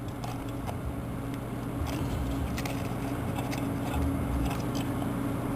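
Scattered light clicks and taps of a small part being handled while a cover is worked loose, over a steady low hum.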